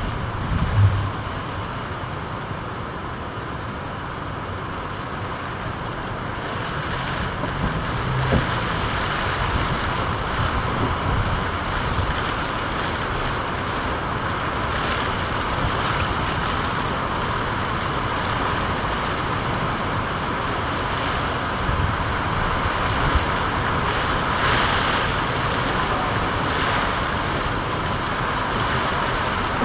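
Steady rain falling: an even, continuous hiss. There is a brief low thump about a second in.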